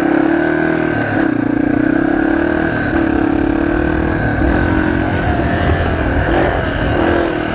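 Motorcycle engine running under way, its note wavering and dipping a few times as the throttle is eased and opened again, picked up by a microphone inside the rider's helmet.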